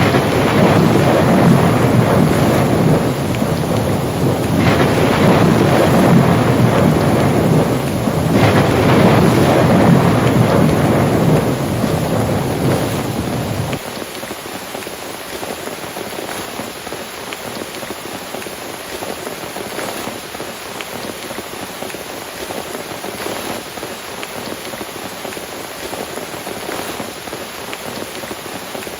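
Thunder rumbling over heavy rain, swelling about three times, then cutting off suddenly about halfway through. Steady rain falls throughout.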